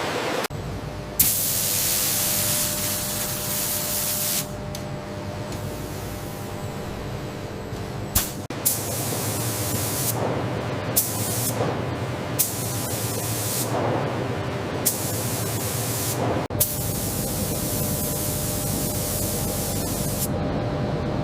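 Factory machine noise: loud hissing over a steady hum, switching on and off abruptly in stretches of a few seconds, with a few sharp clicks.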